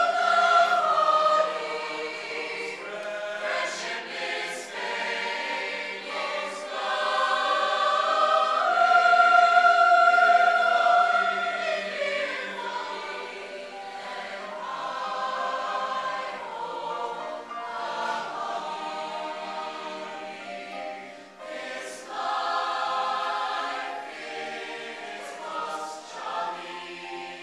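Chamber choir singing in parts, swelling to a long held high note partway through, then softer, then swelling again near the end.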